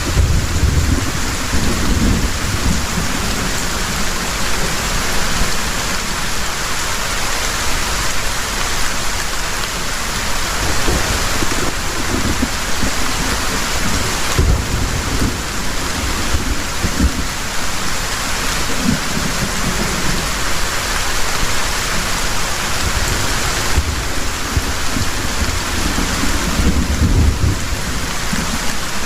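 Heavy rain falling steadily, with low rumbles of thunder several times, strongest near the start and again near the end.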